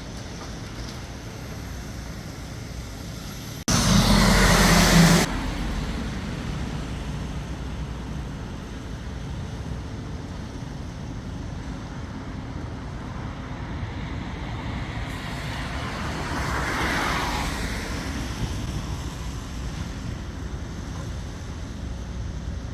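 Street traffic noise, with a vehicle passing about 17 seconds in. About four seconds in, a sudden loud rush of noise starts abruptly and lasts a second and a half.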